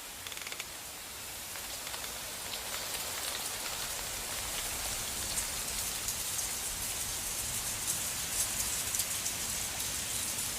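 Wintry precipitation pattering on surfaces in a snowstorm: a steady fine hiss of many small ticks that grows louder about two seconds in. A few quick clicks sound right at the start.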